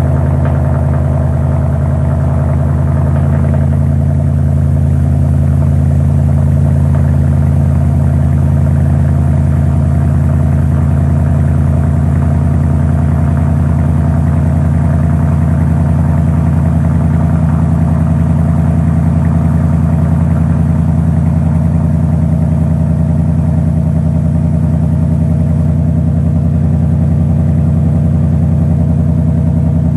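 2018 Mustang GT's 5.0 V8 idling steadily through its exhaust just after a start, with a deep, even burble and no revving.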